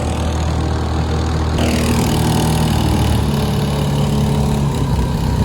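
Small lawnmower-engine outboard motor running steadily, pushing a small boat along.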